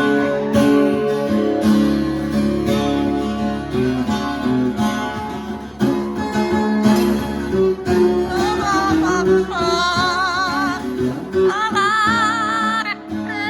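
Acoustic guitar strummed steadily. From just past halfway a high-pitched voice joins in, singing long, wavering notes with strong vibrato.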